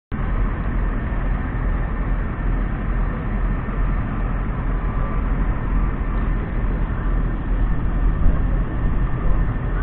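Claas Axion 800 tractor's 6.7-litre six-cylinder diesel engine running steadily, with a deep low rumble.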